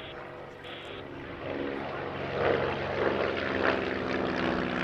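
Light piston-engined propeller aircraft flying past, getting louder from about a second and a half in, its engine pitch bending as it passes.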